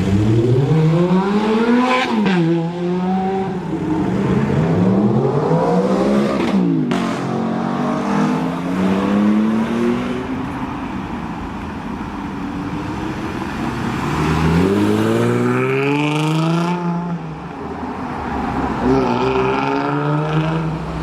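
Jaguar F-Type sports car engine revving and accelerating hard, its pitch climbing and dropping back several times, loudest climbs in the first couple of seconds, around six seconds in and again from about fourteen to seventeen seconds.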